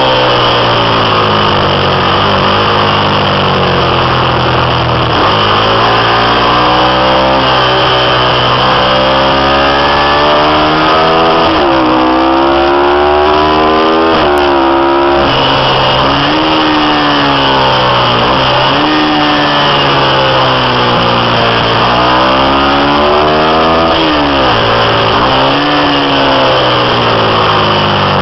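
Ducati 750 V-twin racing motorcycle engine ridden hard on a track, loud throughout, its revs climbing and dropping again and again as it accelerates, shifts and slows for corners.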